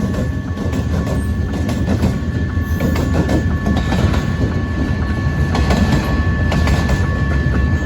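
Train rolling past: a steady rumble of wheels on rail with clicks over the joints, and a thin steady high-pitched ringing over it.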